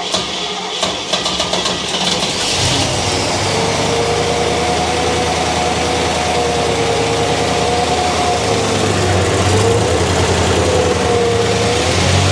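Freshly built 1971 Chevrolet 402 big-block V8 with a Lunati roller cam being cranked on the starter for about two and a half seconds on its first start, then catching quickly and running steadily.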